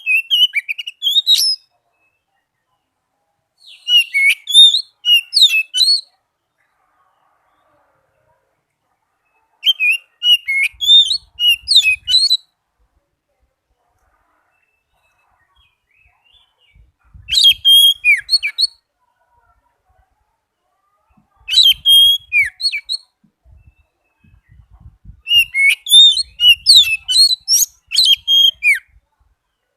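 Oriental magpie-robin singing: six separate bursts of rapid, varied whistled notes and trills, each one to two seconds long with pauses of a few seconds between, the last burst longest at about four seconds.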